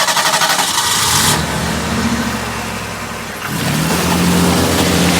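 Car engine accelerating: fast pulsing at first, then a rising engine note that settles into a steady drone over the last second or two.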